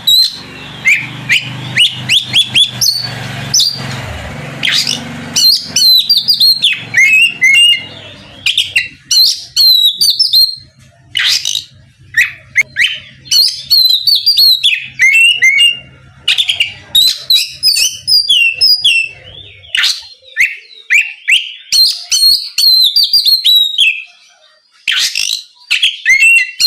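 Oriental magpie-robin (kacer) in full song: rapid, varied runs of loud whistled notes and chirps, coming in bursts separated by short pauses.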